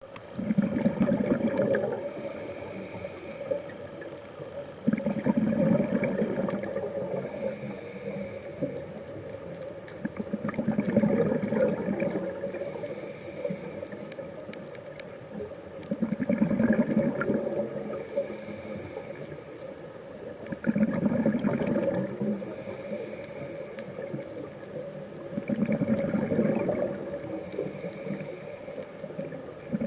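Scuba diver breathing through a regulator underwater. A loud burst of exhaled bubbles comes about every five seconds, six times in all, with a softer hiss of inhaling through the regulator between the bursts.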